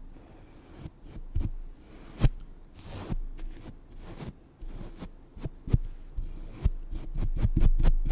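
Irregular scratching, brushing and clicking close to the microphone, with soft low thumps among them, over a steady high chirring of crickets.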